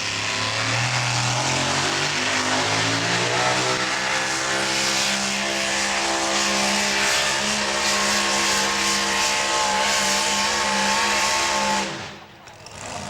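Super modified four-wheel-drive pulling truck's engine at full throttle down the track, its pitch climbing over the first few seconds and then held high and steady. The sound drops away sharply near the end.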